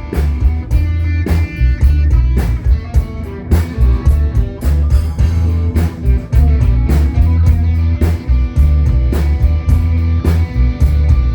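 A rock band playing live: electric guitar over heavy bass and a drum kit with a steady beat.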